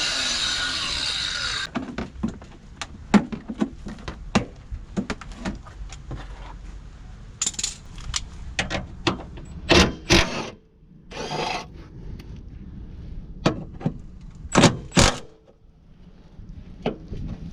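Metal hand tools and parts clinking, knocking and rattling during clutch work on a van, a string of separate sharp metallic knocks. A steady power-tool whir cuts off about two seconds in.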